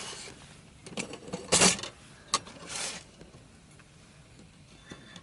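A few short knocks and clatters of hard objects being handled, the loudest about a second and a half in, followed by a single sharp click.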